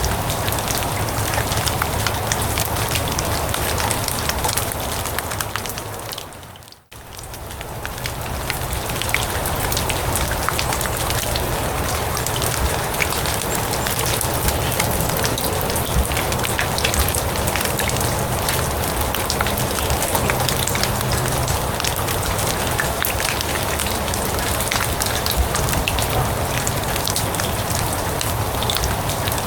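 Steady rain falling on grass, a dense patter of drops over an even hiss. About seven seconds in it fades out almost to silence for a moment and swells back.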